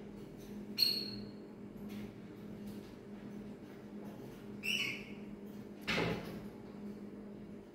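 A pet parrot giving two short, high calls, about a second in and again near five seconds, with a brief rustle about six seconds in over a steady low hum.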